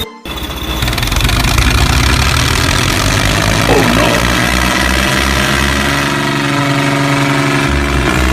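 Tractor engine running steadily with a low, pulsing throb, picking up again after a brief dropout just after the start.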